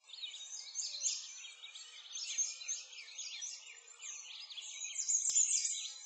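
Birds singing and chirping, many quick high chirps and trills overlapping, with one faint click a little after five seconds.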